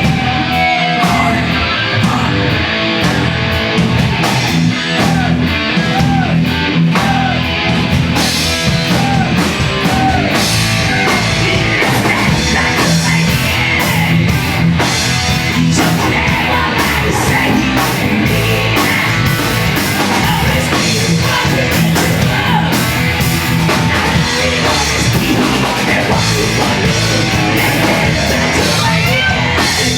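A post-hardcore band playing loud and steady, with distorted electric guitars and a drum kit, and a voice singing over them in places.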